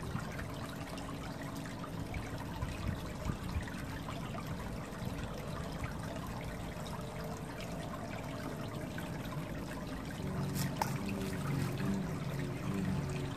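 Water trickling steadily, with a sharp click about ten and a half seconds in and a low hum that comes in near the end.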